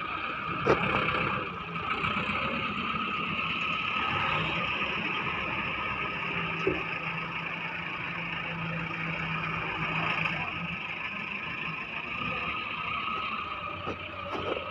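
Heavy excavator's diesel engine running steadily under work, with a sharp knock about a second in and another near the end.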